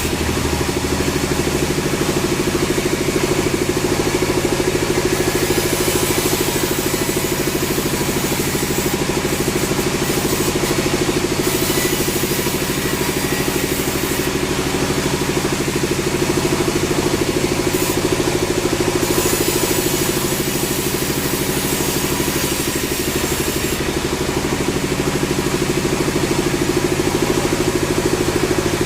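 Sawmill engine running steadily at an even speed, with a high hiss that comes and goes several times.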